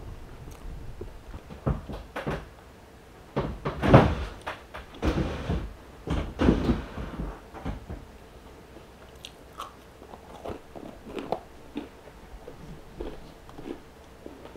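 Chewing and biting of a Wendy's Baconator bacon cheeseburger, as a run of irregular mouth sounds that are loudest from about two to seven seconds in, then softer smacks and clicks.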